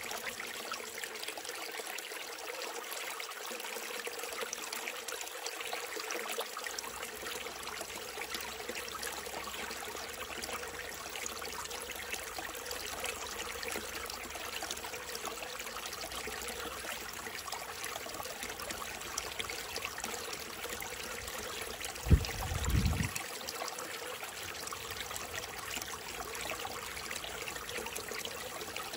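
Stream water running steadily, an even rushing hiss. About three quarters of the way through, a brief low thump, the loudest moment.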